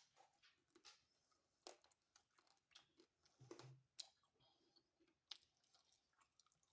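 Faint close-up chewing of pizza: scattered soft mouth clicks and smacks, with a brief low closed-mouth hum about halfway through.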